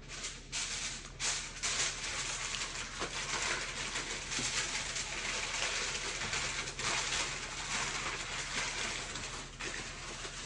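Close-miked chewing and mouth sounds of someone eating chicken wings, with scattered small clicks, followed by drinking water from a plastic cup in the second half.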